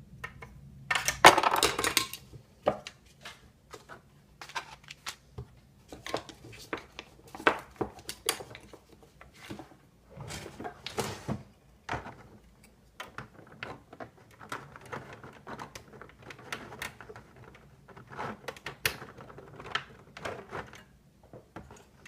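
Small parts of a model airliner being handled and fitted together: many light clicks, taps and rattles, with a louder rustling clatter about a second in.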